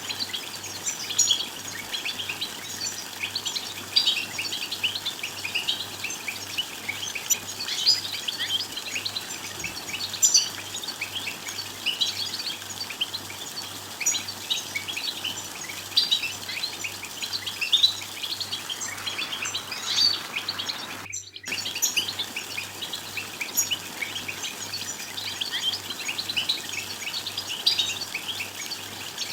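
A flock of European goldfinches chattering and twittering: a dense run of quick, high chirps and short song phrases, the calls used to stir male goldfinches into song. The run breaks off for an instant about two-thirds of the way through, then goes on.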